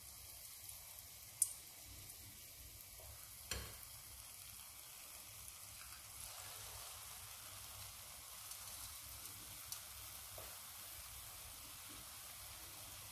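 Spoonfuls of fritter batter frying in peanut oil at about 165 °C: a steady, quiet fizzing sizzle. There are a few sharp clicks, the loudest about a second and a half in.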